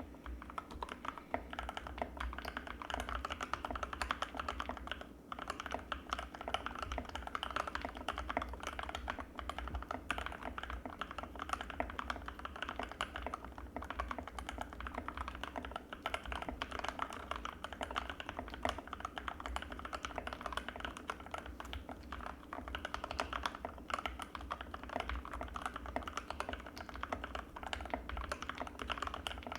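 Fast, continuous typing on an Anne Pro 2 mechanical keyboard with Gateron Red linear switches: a dense stream of key clacks, with a short pause about five seconds in.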